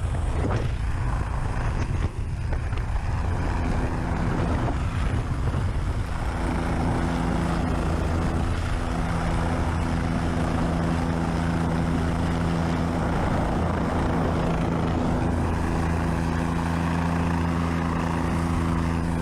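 Helicopter running steadily with a constant low hum under a broad rushing noise. The first few seconds are rougher and more uneven, like wind buffeting.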